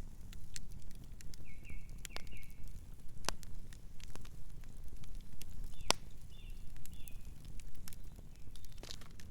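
Campfire crackling, with irregular sharp pops and snaps over a low steady rumble; the loudest pop comes about six seconds in. Soft bird chirps are heard twice, near two seconds and again near seven seconds.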